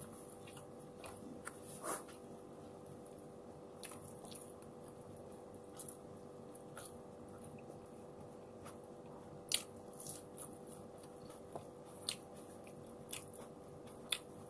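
Faint close-up eating sounds: chewing and mouth smacks on rice and fried dried milkfish eaten by hand, with scattered short clicks. The loudest smack comes about nine and a half seconds in, over a steady low hum.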